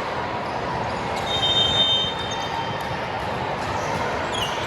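Steady noise of an indoor gym during a match. Sneakers give short high squeaks on the hardwood court, about a second in and again near the end.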